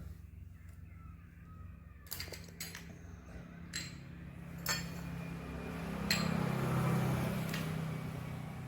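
Metal tools and engine parts clinking and knocking as they are handled, six or so separate clinks, with a louder scraping rustle near the end over a steady low hum.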